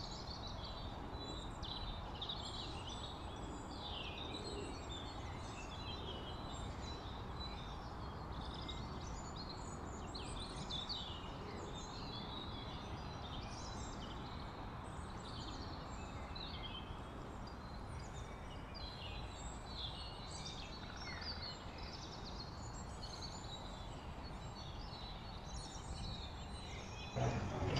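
Small birds chirping over and over, quick short high chirps, over a steady low background hum. A louder low hum starts right at the end.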